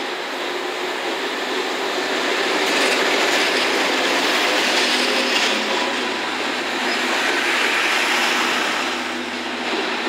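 An EF65 electric locomotive hauling 14-series passenger coaches rolls slowly into the platform and past at close range, making a steady rumble and clatter of wheels on rail. The noise swells as the coaches go by.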